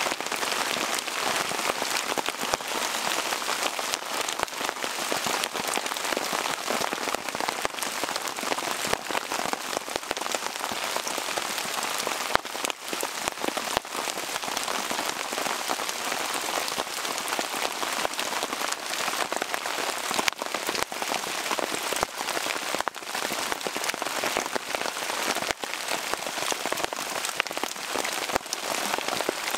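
Heavy rain really coming down on a canvas tarp shelter overhead: a steady, dense rush of countless drop hits that keeps an even level throughout.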